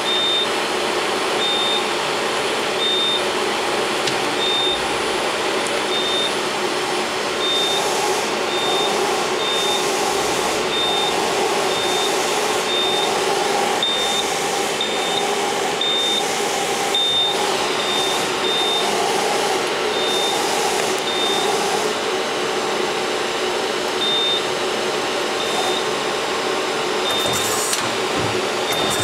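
A 1991 Okuma LB15 CNC lathe running with a steady mechanical hum and hiss, as its turret and slide are put through their motions. A short high beep repeats every second or so.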